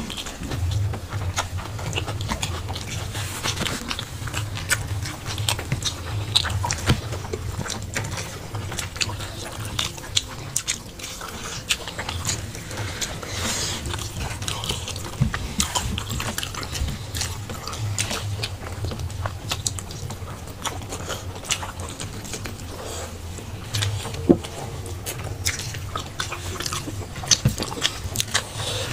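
Close-up chewing and lip-smacking of two people eating rice and chicken curry by hand, a steady run of small wet clicks with one sharper click late on.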